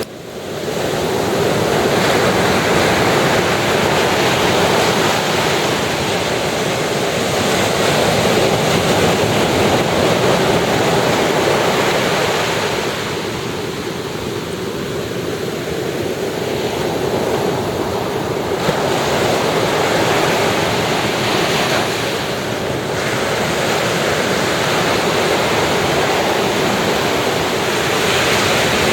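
Ocean surf breaking on the shore: a steady rushing wash that swells and eases every few seconds, with a softer lull around the middle. It fades up over the first second.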